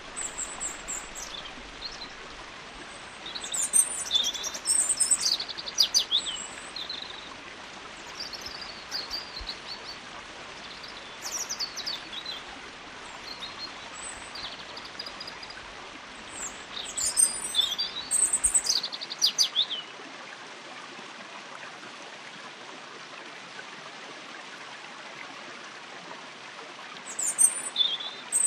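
Steady rush of flowing stream water with bouts of high, whistled songbird song coming in short phrases; the birds fall silent for several seconds in the last third, then sing again near the end.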